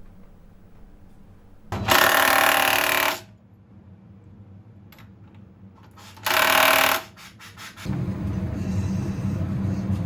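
Two loud bursts of a power tool in a motorcycle workshop, the first about a second and a half long, the second shorter, about four seconds later. From about eight seconds in, a steady low rumble like an engine running.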